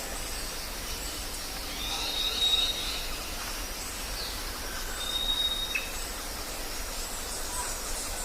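Jungle ambience: a steady high background hiss with several thin whistled bird notes, one about two seconds in and another around five seconds in, followed by a short falling note.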